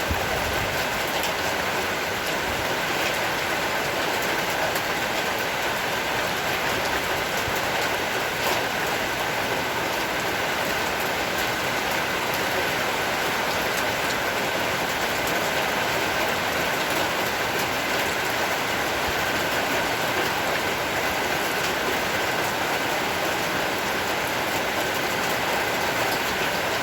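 Heavy tropical rain shower falling steadily: a dense, even hiss with scattered drop ticks.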